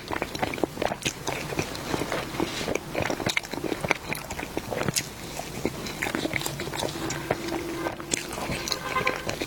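Close-miked biting and chewing of dessert, with many small, irregular crunches and clicks.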